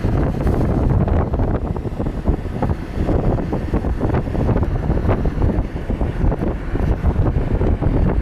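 Strong typhoon wind gusting and buffeting the microphone, a loud, constantly fluctuating rumble.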